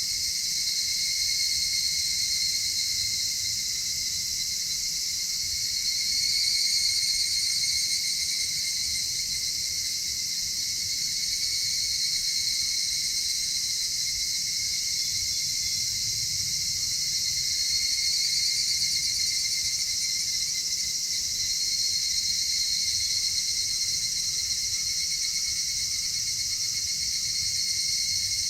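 Dense, steady chorus of chirping insects. Several high-pitched layers of trilling overlap and hold on without a break, swelling and fading only slightly.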